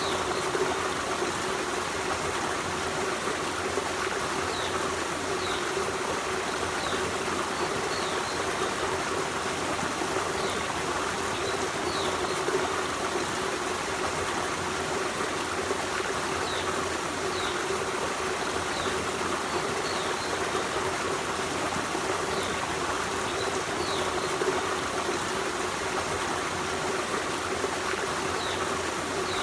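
Forest stream running steadily, an even rush of flowing water, with short high chirps now and then.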